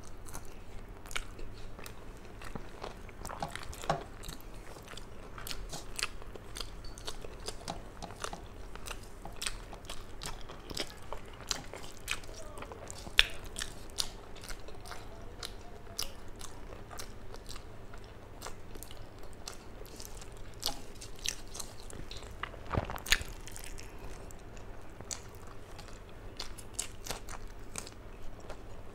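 Close-miked chewing of mouthfuls of rice and fish, with many sharp wet mouth clicks and smacks, together with fingers mixing rice on a steel plate.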